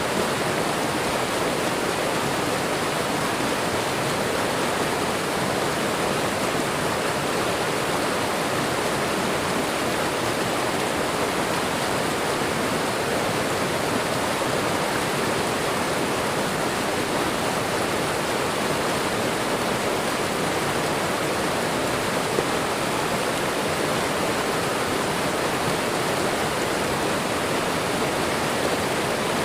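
Steady rushing of a waterfall and running water, an even, unbroken hiss of falling water.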